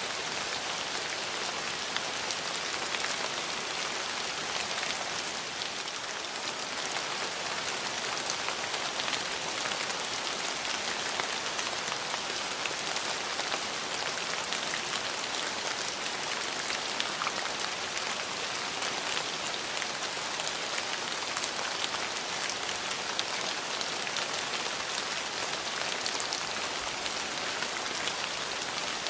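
Steady rain falling on surfaces, an even hiss of many fine drop patters with no change in strength.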